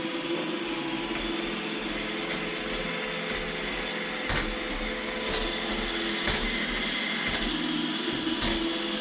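iRobot Roomba E6 robot vacuum running: a steady motor and brush hum with a high whine, and a few light clicks.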